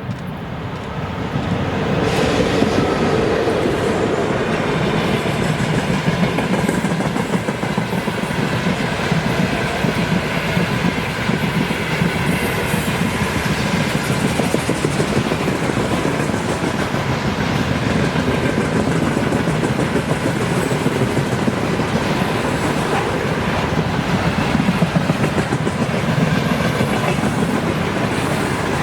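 Freight train behind a VL80S electric locomotive passing close by: the noise builds over the first two seconds, then the wagons roll past steadily with their wheels clattering over the rail joints.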